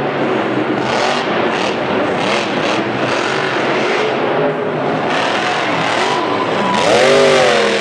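Monster truck engines revving hard, the pitch rising and falling again and again, with the loudest rev surging up and dropping back near the end.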